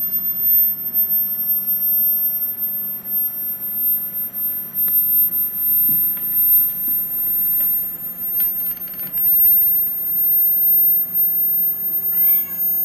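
Klipsch ProMedia 2.1 subwoofer giving off a steady, very high-pitched electronic whine, with fainter high tones that drift slightly in pitch over a low hum: a fault in the speaker system's electronics.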